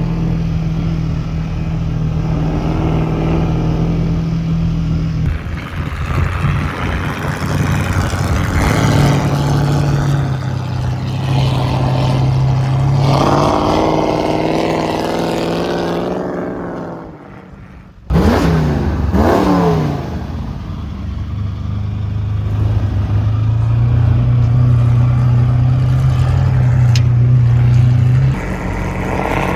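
Bullnose Ford Bronco engine running and revving while driving, its pitch rising and falling repeatedly. About two-thirds of the way through it fades and drops out briefly, then comes back suddenly.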